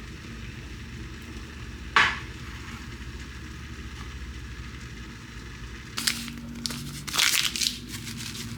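Crinkling and crackling handling noise: one sharp rustle about two seconds in, then a cluster of crinkly crackles near the end, over a steady low hum.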